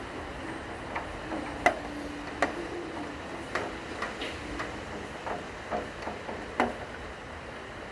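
Raindrops dripping and ticking at irregular intervals over a steady rain hiss, with faint low held cello notes underneath.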